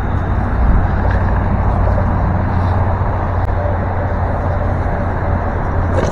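Creek water rushing steadily: a constant, even noise with a low hum underneath.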